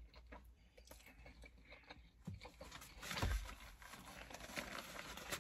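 Faint chewing and small wet mouth clicks from a person eating a taco, with a soft low thump about three seconds in.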